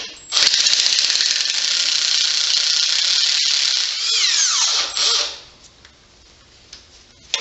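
A tool working on engine fasteners: a loud, rapid mechanical whir that runs for about five seconds, falls in pitch as it winds down, and stops a little past halfway.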